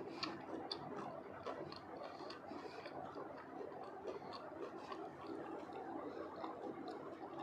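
Close-miked chewing of crispy fried potato pieces with the mouth closed: frequent small crunches and clicks over wet mouth sounds.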